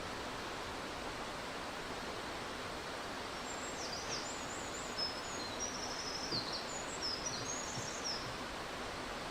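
Mountain stream rapids rushing steadily over rocks. A small bird sings a string of quick, high notes over the water for several seconds in the middle.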